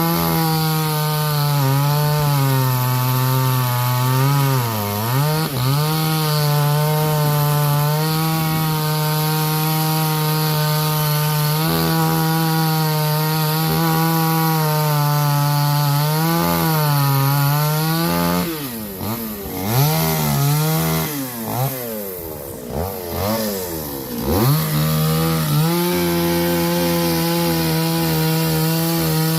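Two-stroke chainsaw running at speed while cutting wood, its engine note dipping now and then as the chain bites. About two-thirds of the way in, the pitch rises and falls several times in quick succession before the saw settles back to a steady cut.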